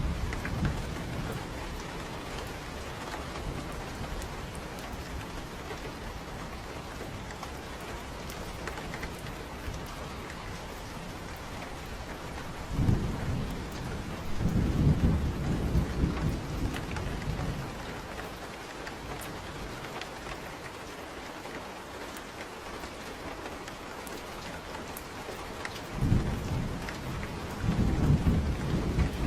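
Steady rain falling, with two long low rolls of thunder, the first starting about 13 seconds in and the second near the end.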